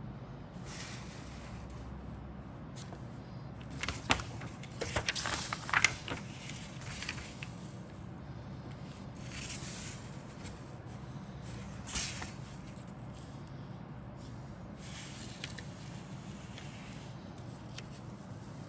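Handling of a plastic model kit's box and contents: scattered rustles and sharp clicks, loudest in a cluster about four to six seconds in, with another sharp click a little past the middle.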